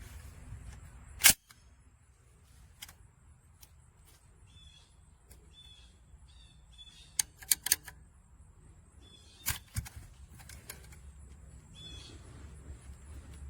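DOTOOL 16-gauge pneumatic finish nailer firing in sharp shots: one loud shot about a second in, a quick run of three around seven and a half seconds, and two more near nine and a half seconds. Birds chirp between the shots.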